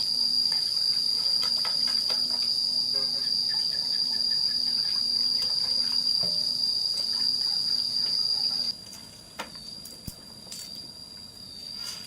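Steady high-pitched drone of insects. It drops suddenly to a fainter level about three-quarters of the way through. A few light clicks and knocks sound over it.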